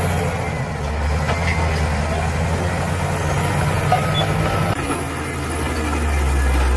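Bulldozer's diesel engine running steadily with a deep low drone, its note shifting about two-thirds of the way through.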